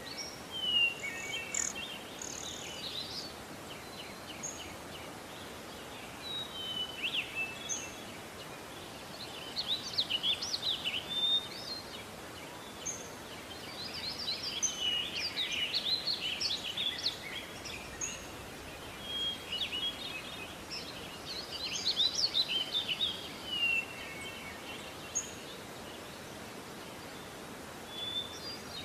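Small birds chirping and twittering in bursts of quick, high, sliding notes over a steady background hiss.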